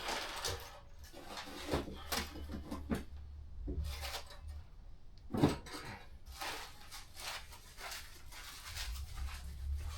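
Metal parts and tools clinking and clattering as they are handled, with irregular knocks and one sharper knock about five and a half seconds in.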